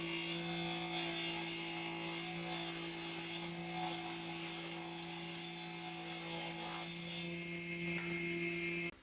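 Steady electric hum with a hiss over it, cutting off suddenly near the end.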